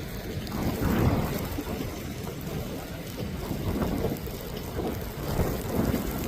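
Storm wind buffeting the microphone: a rumbling noise that swells in gusts, several times.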